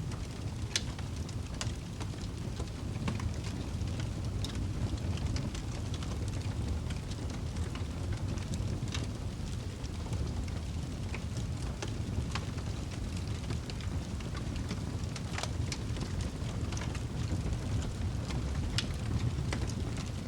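Wood fire burning in a fireplace: a steady low rumble of flames with scattered sharp crackles and pops, a few every second or two.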